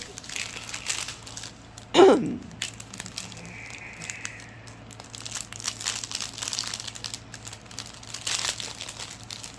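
Plastic packaging and small bags of diamond painting drills crinkling as they are handled, with a brief voiced murmur about two seconds in.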